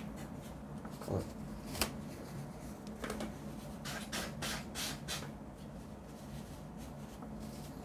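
A person blowing their nose into a tissue, faint and away from the microphone, with scattered soft rustling and handling sounds.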